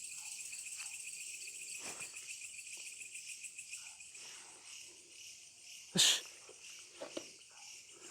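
Night chorus of crickets and other insects, a steady high, rapidly pulsing trill. About six seconds in, a single sharp click or snap stands out above it.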